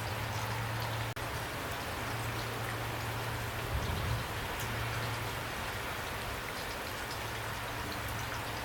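Steady rain: a dense, even patter of raindrops with individual drops ticking through it, over a low steady hum. A couple of soft low thumps sound about four seconds in, and the sound drops out for an instant just after a second in.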